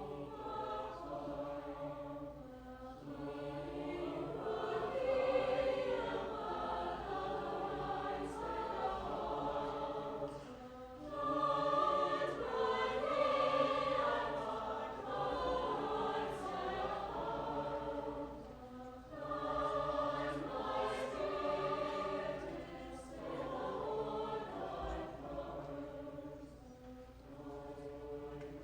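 High school choir singing in sustained phrases, with short breaks between them.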